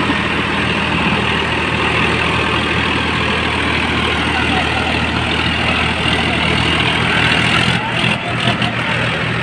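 Tractor diesel engine running steadily at a constant speed, with a few brief knocks or rattles near the end.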